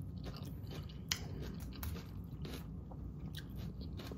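Close-miked chewing and crunching of a mouthful of raw salad vegetables (romaine, red cabbage, carrots), a run of small irregular crunches and wet clicks, with one sharper click about a second in.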